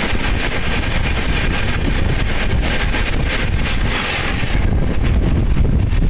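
Moving passenger train: steady rumble of the coach running on the track, with wind buffeting the microphone. The high hiss eases off about three-quarters of the way through.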